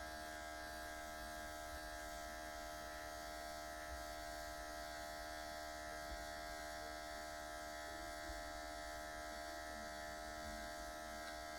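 Small battery-powered airbrush compressor of a cordless airbrush kit running continuously with the trigger held, a steady even motor buzz.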